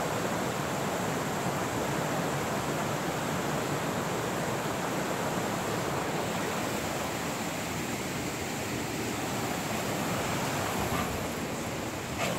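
Steady rush of a mountain creek flowing over rocks, an even hiss.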